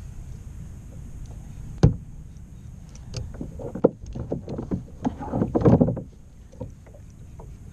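Gear being handled on a kayak, knocking against the hull: one sharp click a little under two seconds in, then a run of knocks and clatter from about three to six seconds, over a steady low rumble.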